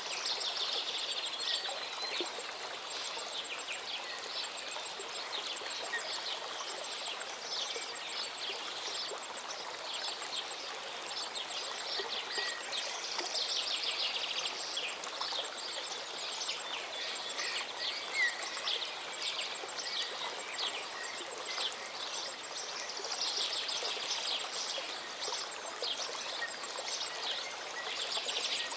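A small mountain waterfall running steadily, with many birds chirping and trilling over the water throughout.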